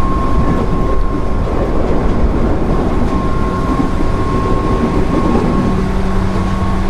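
JR 205 series 0 electric multiple unit running, heard from inside the car: steady wheel-and-rail running noise with a thin steady tone. A low steady hum comes in about five and a half seconds in.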